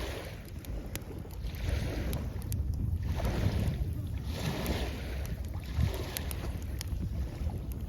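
Small waves washing up the shore in repeated surges, with a wood campfire crackling in sharp scattered pops. A low rumble of wind runs underneath.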